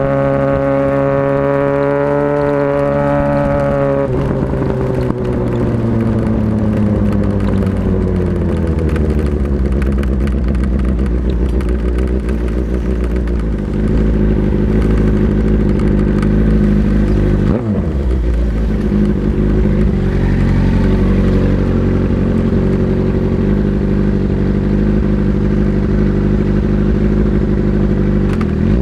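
Motorcycle engine running while riding: held at a steady high pitch for the first few seconds, then falling steadily in pitch as it slows, then running steady at a lower speed, with a brief break about two-thirds of the way through.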